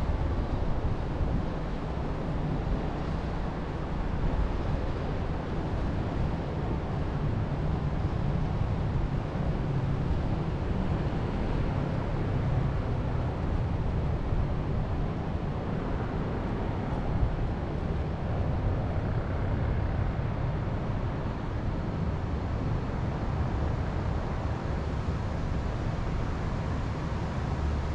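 Wind blowing steadily, buffeting the microphone with a low rumble under a rushing hiss.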